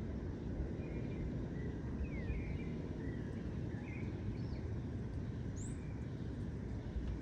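Songbirds giving scattered short chirps and twitters, one higher chirp near the end, over a steady low rumble.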